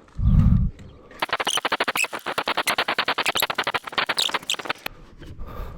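A low thud, then a long run of fast, even ticking lasting several seconds: a mountain bike's rear freehub clicking as the wheel turns freely while the downhill bike is handled onto a car rack.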